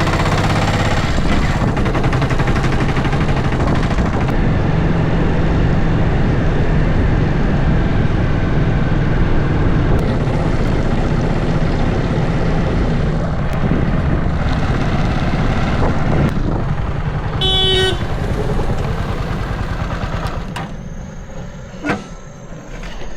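Vehicle driving, with a steady engine rumble and road noise. A horn gives one short toot about three quarters of the way through, and the noise dies down near the end as the vehicle slows.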